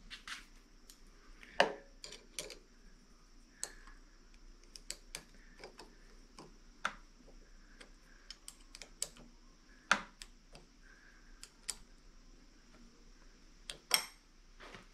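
Irregular light clicks and taps of small metal parts being handled while a clamp mount is fitted and tightened on a motorcycle handlebar. There is a louder knock about a second and a half in and another near ten seconds.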